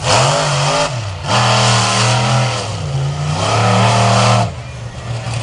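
Monster truck engine revving hard in four bursts, the pitch dropping between each and falling off near the end.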